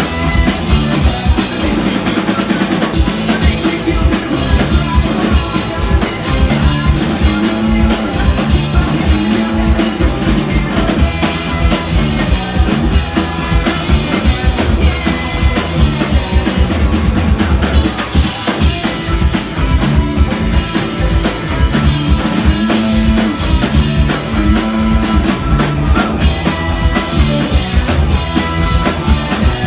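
Rock band playing live, with a loud drum kit driving a fast, steady beat of kick and snare under sustained bass and guitar.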